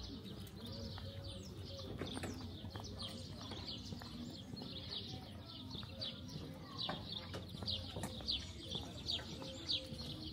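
Small birds chirping: a quick series of short, high, falling notes that comes faster and louder in the second half.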